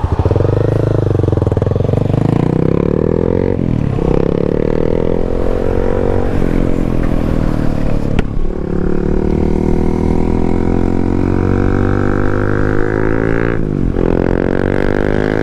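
Yamaha MT-07 parallel-twin motorcycle engine accelerating through the gears. The revs climb steadily and drop sharply at each of about four upshifts, over a rushing hiss of wind.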